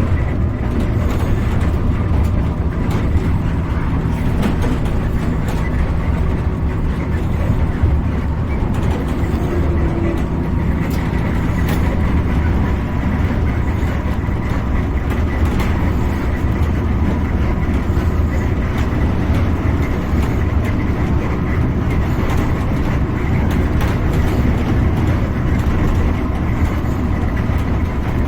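A vehicle's steady running noise while driving on a highway: a constant low engine hum with tyre and road noise over it.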